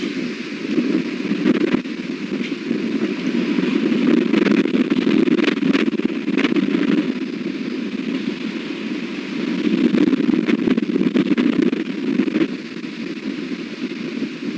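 Strong wind gusting across the nest-cam microphone, a loud rushing noise that swells and eases, with a few brief clicks and rustles.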